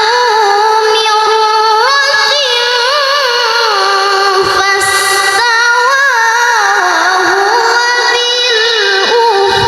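A child reciting the Quran in melodic tilawah style: one high voice holding long notes with fine ornamented turns, broken by short pauses for breath, with a brief hiss about five seconds in.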